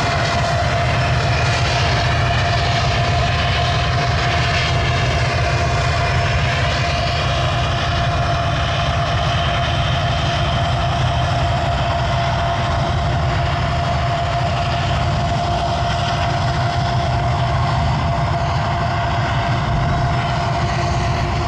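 Diesel freight locomotives working past: a steady, loud low engine drone with a constant whine.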